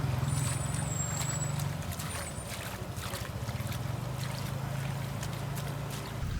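Wok cooking: a steady low drone, such as a gas wok burner makes, with a run of quick metal clicks and scrapes from a spatula working the wok.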